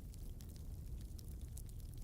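Wood fire crackling: scattered small, sharp pops and snaps over a steady low rumble.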